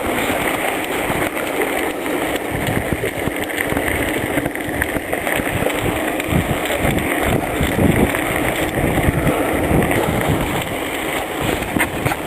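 Wind buffeting the microphone while riding a bicycle, mixed with steady rolling noise from the bike's tyres on the trail.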